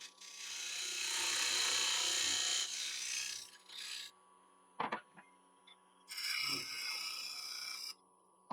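Parting tool cutting into spinning sycamore on a wood lathe: a scraping hiss for about three seconds, a click about five seconds in, then a second shorter cut near the end, over the lathe's steady hum.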